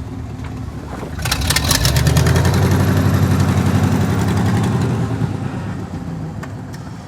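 Truck engine rising in revs about a second in, running hard under load for several seconds, then easing off.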